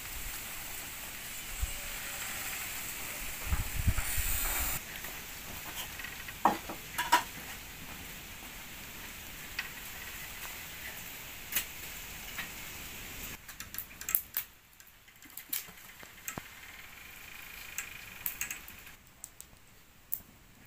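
Food sizzling in a pan, with scattered clicks and taps of a utensil. About thirteen seconds in, the sizzle drops away and only a few clicks and taps go on.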